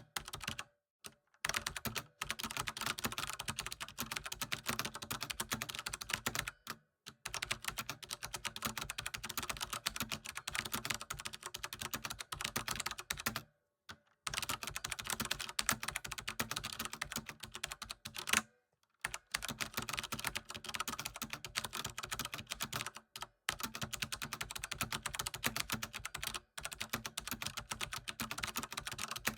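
Computer keyboard typing: fast runs of key clicks broken by short pauses every few seconds, with one louder keystroke about two-thirds of the way through.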